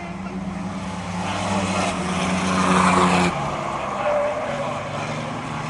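Race trucks' engines running hard as the field laps the oval, growing louder to a peak about three seconds in as they pass close, then dropping off suddenly.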